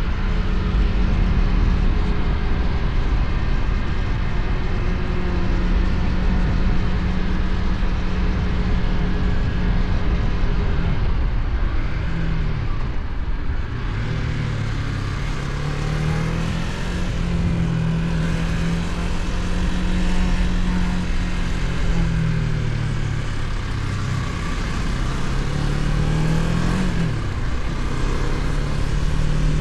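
KTM Duke 250's single-cylinder engine running at steady highway revs, then dropping and climbing again several times, with a quick rise that falls sharply near the end, like a gear change. Steady wind and road noise run underneath.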